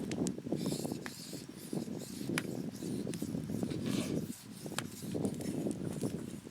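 Steel knife blade being stroked back and forth across a whetstone in a quick run of scraping strokes, grinding a new edge on a chipped blade, with a few sharp clicks among them.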